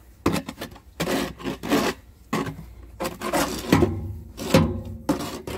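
Snow shovel scraping and scooping light powder snow off steps: a series of short rasping strokes, about one or two a second.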